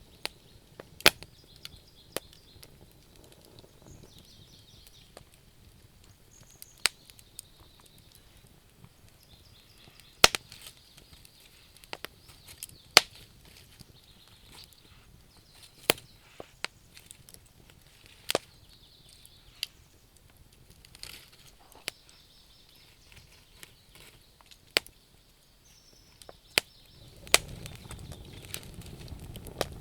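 Burning wood crackling in a campfire: sharp, irregular pops and snaps, sometimes several close together, over faint high chirping of crickets. A low rushing noise rises near the end.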